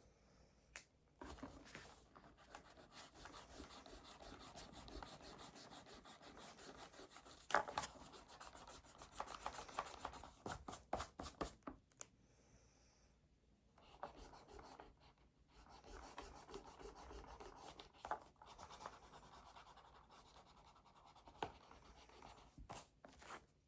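Faint scratching of writing on paper, in two long stretches with a short pause between them, broken by a few small taps.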